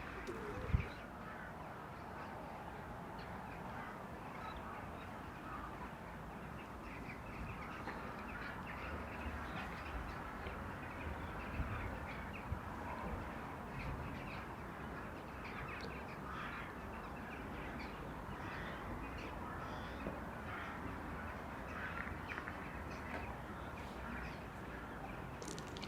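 A large flock of birds calling without pause, many short calls at once: starlings chattering, with crows cawing among them. There is a brief low bump about a second in.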